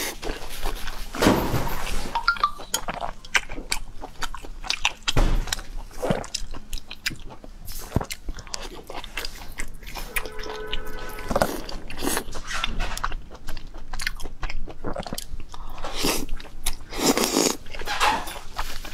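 A person eating close to the microphone, with irregular bites, crunches and wet chewing.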